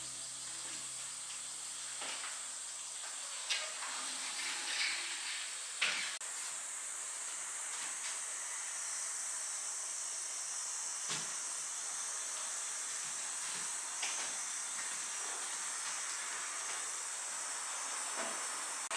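Steady hiss, strongest high up, with a few light clicks and knocks, the loudest about six seconds in.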